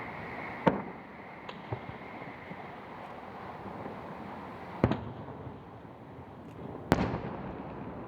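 Aerial fireworks shells bursting: three loud sharp bangs spaced a few seconds apart, with a couple of smaller pops between the first two, the last bang trailing off in a rolling echo.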